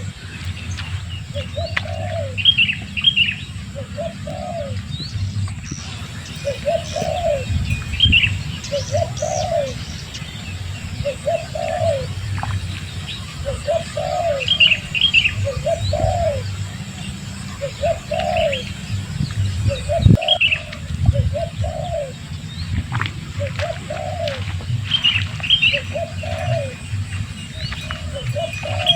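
A bird cooing over and over, a soft low call about every second and a half, with higher chirps from small birds now and then. A low rumble runs underneath, and a single sharp knock comes about two-thirds of the way through.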